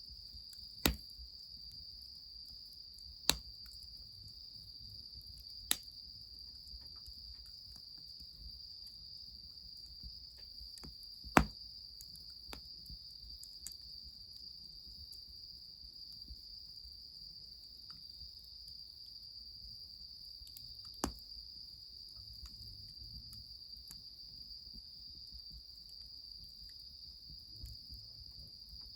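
Crickets chirring in a steady high-pitched chorus. A handful of sharp cracks stand out above it, the loudest about eleven seconds in.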